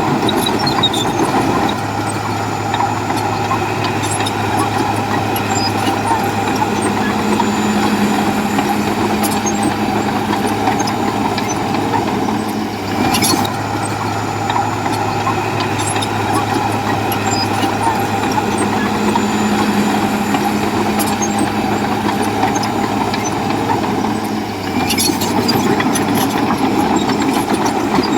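Diesel engine of a Komatsu bulldozer running at a steady note as it works, with a sharp knock about halfway through and another near the end.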